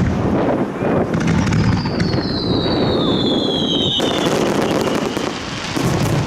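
Fireworks going off: dense crackling and repeated bangs from bursting shells. A high whistle falls steadily in pitch from about two seconds in to about four seconds in.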